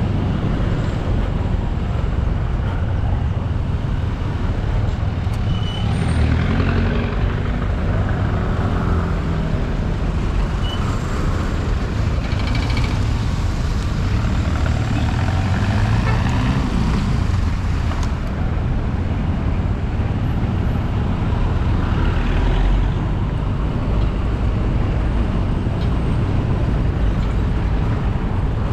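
Motorcycle running under way, heard through a GoPro riding along on the bike, with a heavy low rumble throughout. The engine pitch rises and falls a few times.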